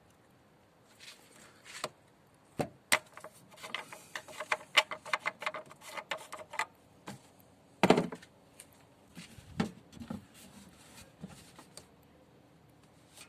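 Clicks, rattles and knocks of handling things by hand: a quick run of small clicks from about 3 to 6.5 s in, then one louder knock about 8 s in and a few lighter ones after it, as oil is readied to top up the engine.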